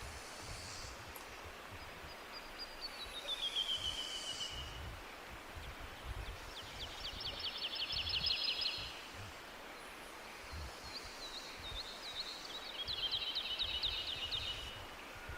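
Songbirds singing in a forest: a falling trill about three seconds in, then two fast, rapid-note trills, one mid-way and one near the end, over a steady background hiss with faint low rumble.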